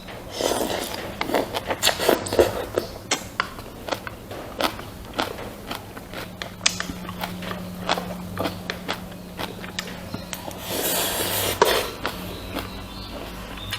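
Close-miked eating sounds: chewing with many sharp mouth and utensil clicks, and two longer noisy stretches, one near the start and one about eleven seconds in, over a faint steady low hum.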